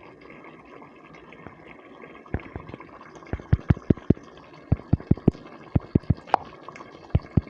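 Chicken simmering in a thick taco-seasoning sauce in a pan, bubbles popping irregularly over a low steady hiss, the pops coming thick and fast from about two seconds in.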